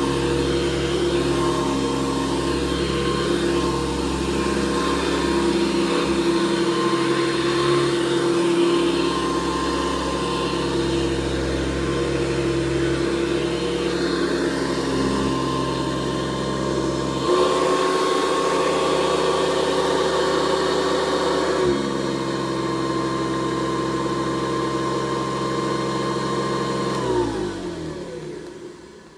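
1977 Hoover Convertible U4401 upright vacuum cleaner running with a steady motor hum and fan whine. Past the middle its pitch steps up for about four seconds, then drops back. Near the end it is switched off and winds down, the whine falling in pitch as it dies away.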